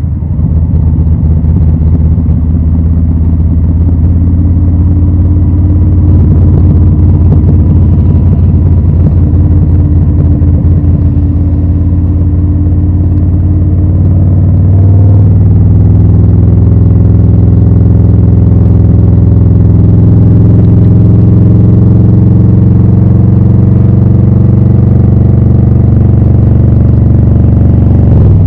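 Harley-Davidson Low Rider S V-twin running through Rinehart slip-on exhausts, with a steady, loud, low note. About halfway through the note shifts and runs a little louder.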